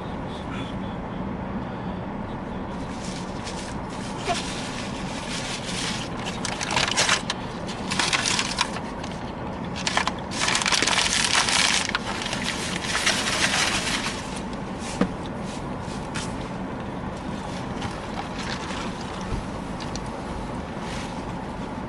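Food wrapper crinkling and crumpling in several noisy bursts, longest and loudest about ten to twelve seconds in, over a steady low hum.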